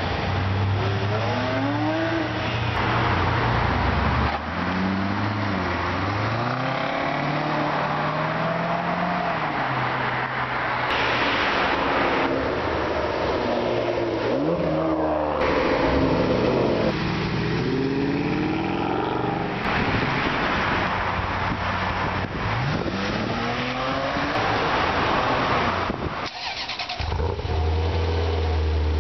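High-performance car engines accelerating and revving as cars drive past, each pass a rising then falling engine note, with abrupt cuts between clips; in the middle a Ferrari 599's V12 accelerates toward the camera. Near the end a Ferrari 348 Spider's V8 idles steadily.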